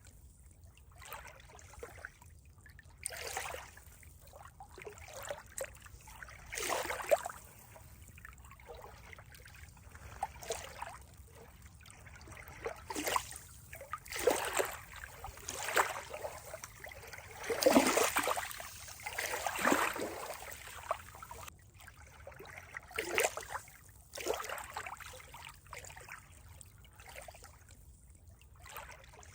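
Water trickling and splashing in irregular spurts every second or two over a faint steady rush, loudest about two-thirds of the way through.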